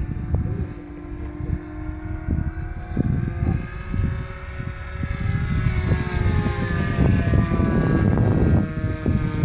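Engine of a Hangar 9 Piper Pawnee 40 radio-controlled model airplane droning in flight, its pitch bending and the sound growing louder in the second half as the plane passes. Wind buffets the microphone throughout.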